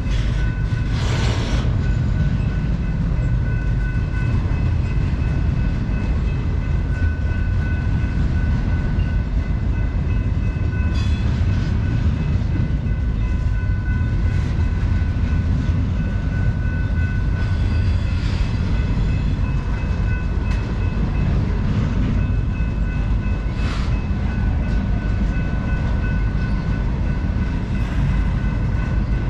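Intermodal freight train cars rolling past, a steady rumble of steel wheels on rail. Faint, steady high-pitched ringing tones come and go, with a few brief clanks.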